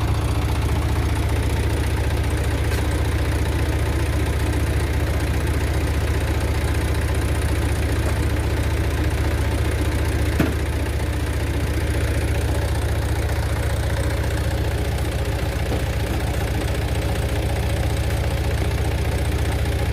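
Diesel engine idling steadily, a low even rumble that stays at the same level throughout.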